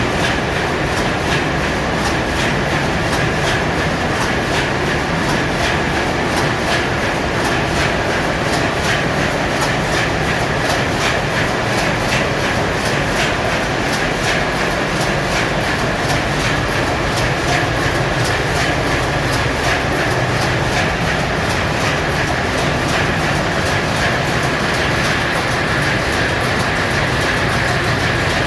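Loud, steady machinery running in a very large crude carrier's engine room, with a constant high hum and an even, rapid clatter of ticks several times a second.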